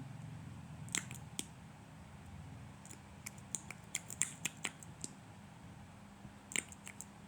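Irregular light clicks and ticks from small items being handled: one cluster about a second in, a busier run between three and five seconds, and another near the end, over a low steady hum.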